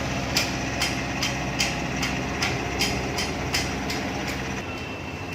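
Volkswagen Vento's TDI diesel engine idling steadily just after a cold start, with a run of sharp, regular ticks about two or three a second that thin out after about three and a half seconds.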